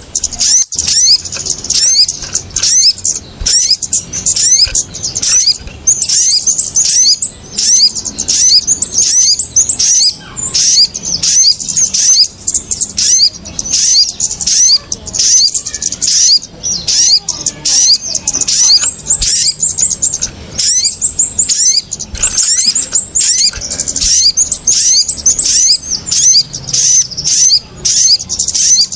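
Bird-trapping lure recording of kemade and sogon (sogok ontong) calls: a dense, agitated chatter of rapid high chirps and short down-slurred notes, several a second without pause, a noisy 'ribut' call meant to draw small birds down.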